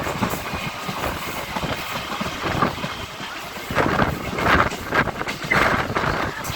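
An EMU local train running, heard from inside the coach: a continuous rumble of wheels on rail, with louder surges of rattle in the second half.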